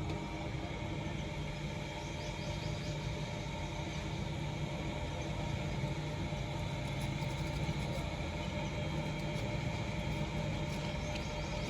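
Steady hum of an idling engine, with a few faint light clicks in the second half.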